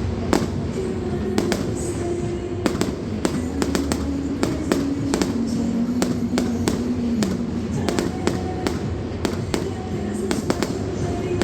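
Fireworks going off in quick succession, many sharp bangs and cracks, some in rapid clusters, with music playing underneath.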